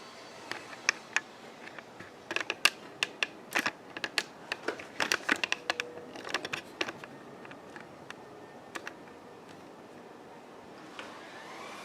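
An irregular run of light clicks and taps, bunched from about two to seven seconds in and thinning out after, over a faint background hiss.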